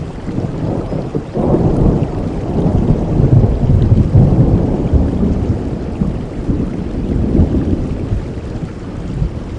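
Steady rain with a long roll of thunder that swells about a second and a half in, is loudest mid-way and fades away near the end.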